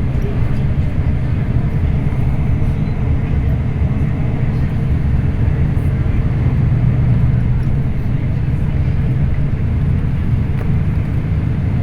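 Scania K340IB bus under way, its engine droning steadily with road noise.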